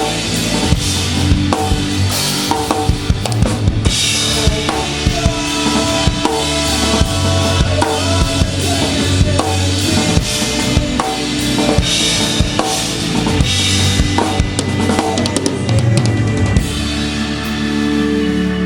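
Live rock band playing an instrumental passage, led by a full drum kit: kick drum, snare and rimshots with crashing cymbals over bass and other instruments. About three-quarters of the way through the drums stop, leaving steady held chords, organ-like.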